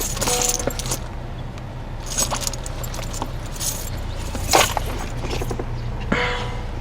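Keys jangling and clinking a few times over a steady low rumble, with the loudest clink about four and a half seconds in.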